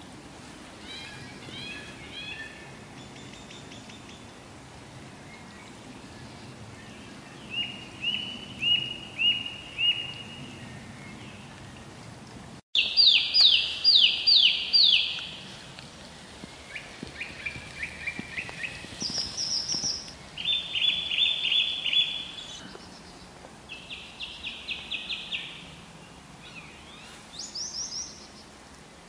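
A songbird singing in short phrases of rapidly repeated chirping notes, a new phrase every few seconds, over steady outdoor background noise. After an abrupt break about halfway through, the phrases are louder.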